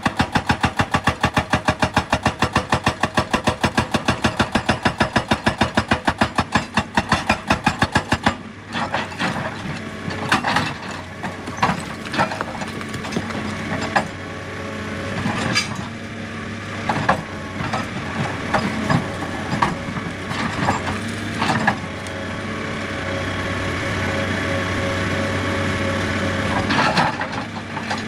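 Heavy machine hammering in a fast, even rhythm of strong knocks, about six a second, which stops suddenly about eight seconds in. After that the machine's engine runs steadily while rock knocks and clatters at irregular moments.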